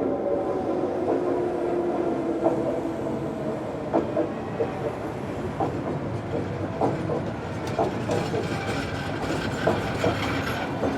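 Metro train running on its rails: a steady rumble with a low motor tone and irregular clacks of the wheels over rail joints.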